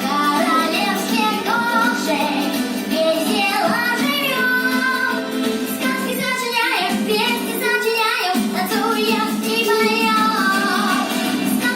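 Children singing a song to musical accompaniment.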